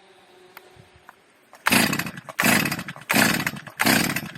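Chainsaw, which has kept stalling, revved in four short full-throttle bursts about a second and a half in, after a quiet moment. The crew suspect it has got damp or has a filter problem.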